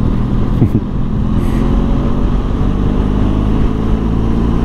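Benelli TRK adventure motorcycle's parallel-twin engine running steadily at road speed, with wind rumble on the microphone.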